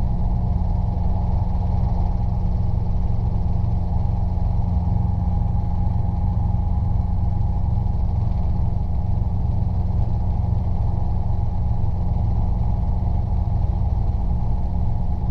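Robinson R22 helicopter's engine and rotors running steadily, heard from inside the cockpit: a constant low rumble with a steady hum.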